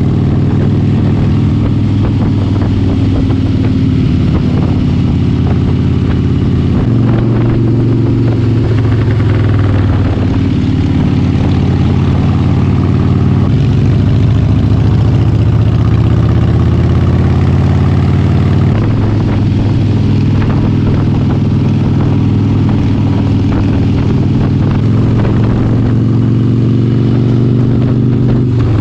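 Harley-Davidson V-twin motorcycle engine running steadily under way, its pitch stepping up and down several times as the throttle and gears change.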